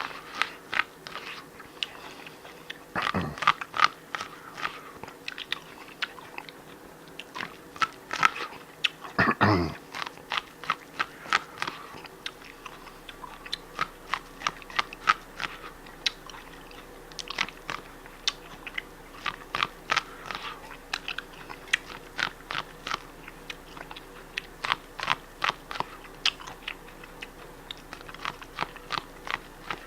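A person chewing crunchy food close to the microphone: crisp, irregular crunches, several a second, with two louder, deeper bites about three and nine seconds in.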